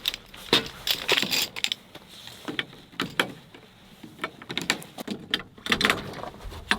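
Irregular clicks and knocks, with some rustling, of objects being handled and set down.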